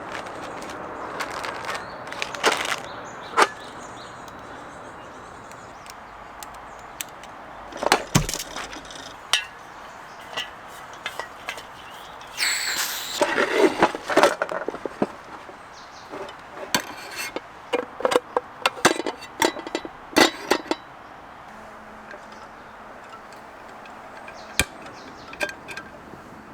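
Camp cooking gear being handled: scattered clinks, clicks and knocks, with a short rushing hiss about halfway through.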